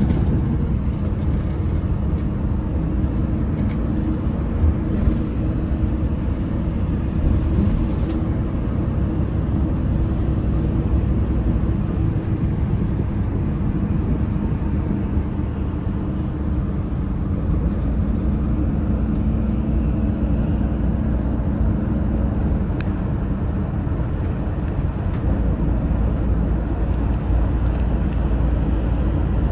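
Daewoo FX116 coach's engine running steadily while the bus is under way, a low drone mixed with road rumble.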